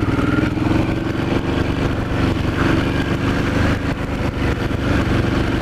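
Yamaha R6 sport bike's inline-four engine running at a steady speed, over a steady rush of wind and road noise.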